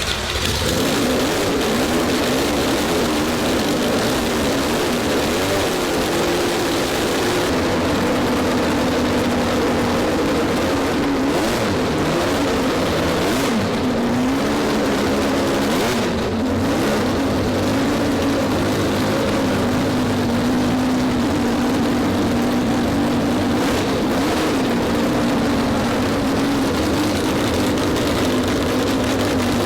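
A 12-rotor Wankel rotary engine running on its first start, settling into an idle. Its steady note drifts up and down a little in pitch throughout.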